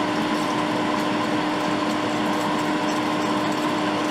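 Hot air rework station blowing steadily: a constant airy rush with a steady hum beneath it.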